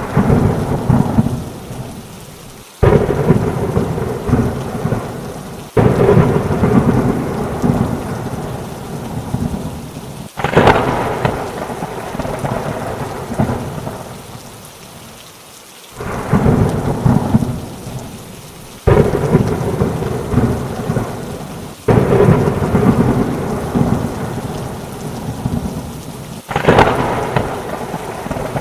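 Heavy rain with thunder: about eight thunderclaps, each starting suddenly and rumbling away over a few seconds before the next one breaks.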